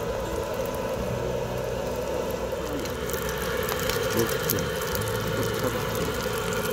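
Egg-battered dried pollock frying in oil on a camping griddle: a steady sizzle with scattered crackles from about three seconds in, over a low steady hum.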